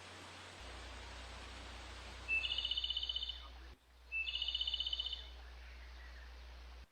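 A bird gives a short, fast, high trill twice, each about a second long and opening with a brief rising note, over a steady background hiss.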